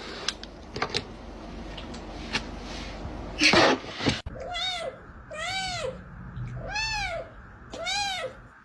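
A domestic cat meows four times, about once a second, each meow rising then falling in pitch. Before the meows come a few light clicks and a short, loud rush of noise.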